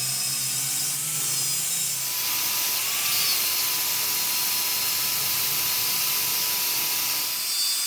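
A power tool runs steadily on metal: a continuous hissing noise with a thin steady whine through it.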